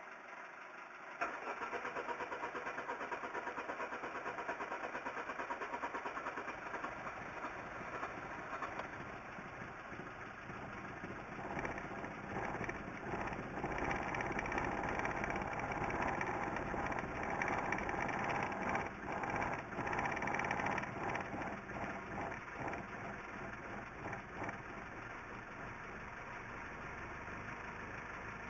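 Vauxhall/Opel Corsa X14SZ 1.4-litre petrol engine starting about a second in, then running. It grows louder and uneven through the middle stretch, then settles. The title says the engine has a problem.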